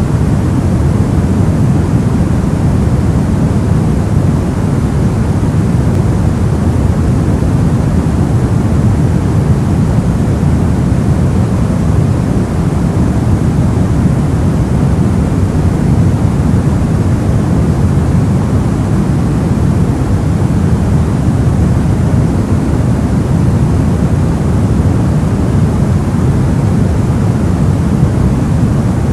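Soft white noise: a steady, even hush, deep and muffled rather than hissy, with its weight in the low end and no change throughout.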